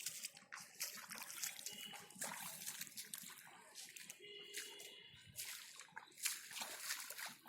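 Shallow muddy water sloshing and splashing in many small, irregular splashes, as hands grope through it for fish.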